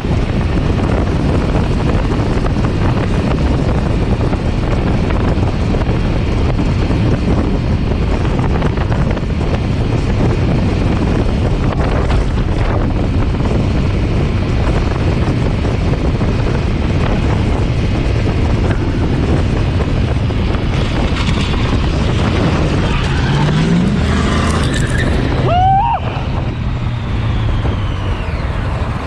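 Motor vehicle on the road: steady engine, road and wind noise. Near the end the engine note rises, then a brief high squeal sounds and the noise drops slightly.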